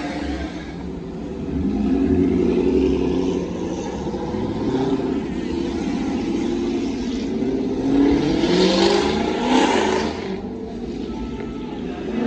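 Car engines revving and accelerating away, the engine pitch climbing about two seconds in and again near eight seconds, with a loud rush of noise about eight to ten seconds in.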